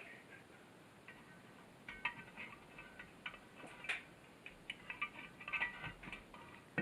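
Scattered light clicks and small metallic clinks of carburetor parts being handled during reassembly, some with a short ringing tone.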